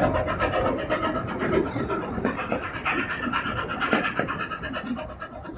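Narrow-gauge passenger coaches rolling past close by behind a steam locomotive, with a rapid, even, rasping clatter of wheels on rail that fades as the train draws away.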